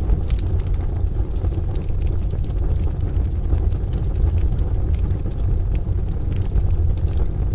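Wood fire crackling, with scattered sharp pops and clicks, over a steady deep rumble from a mixed rain and distant-thunder ambience.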